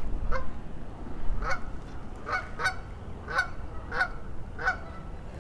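A goose honking repeatedly, about seven short honks in a loose rhythm, with a low rumble underneath.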